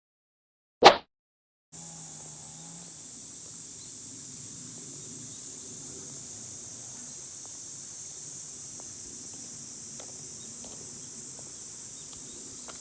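A single short, loud burst about a second in, then a steady, high-pitched chorus of summer insects that comes in abruptly and runs on unbroken.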